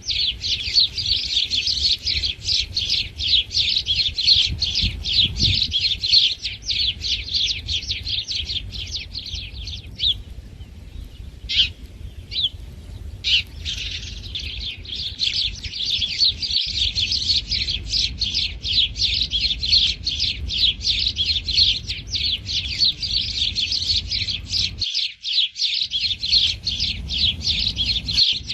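House sparrows chirping rapidly and without let-up, many high chirps a second, typical of the begging calls of sparrows being hand-fed. About ten seconds in the chirping breaks off for a few seconds, leaving only a few single calls, then the rapid chirping starts again.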